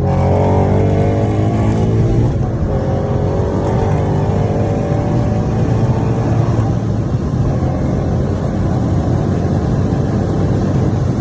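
2012 Roush Stage 3 Mustang's supercharged V8 pulling hard from a launch, its pitch climbing. There is a gear change about two seconds in, then another climb, before the engine settles into a steadier run.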